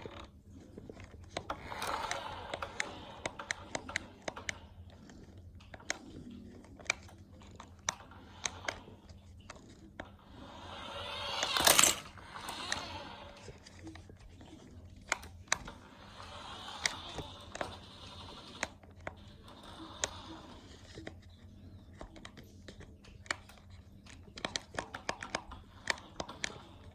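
Scattered sharp clicks and taps with swells of crinkly rustling, as of small objects being handled; one louder rustle a little before halfway through.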